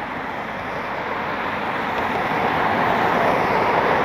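Jet aircraft engine noise: a steady rushing roar that grows gradually louder.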